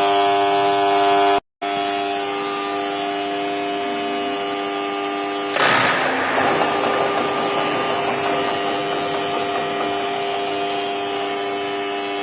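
Lathe spindle and gear train running steadily at speed with a multi-toned whine. The sound cuts out briefly about a second and a half in, and a short rushing noise comes about six seconds in.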